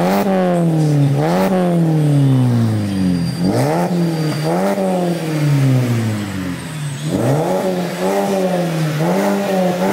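SEAT Leon Mk2 1.6 being revved while stationary through an aftermarket remote-controlled valved (Varex) exhaust: about seven throttle blips, each rising quickly in pitch and falling back more slowly toward idle.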